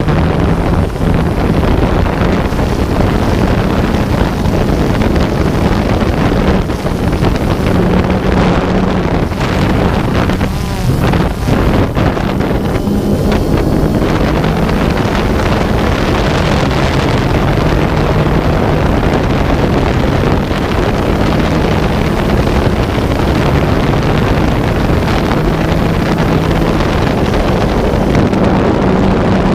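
A boat engine running steady with a low hum that shifts slightly in pitch, under heavy wind buffeting the microphone and rushing water.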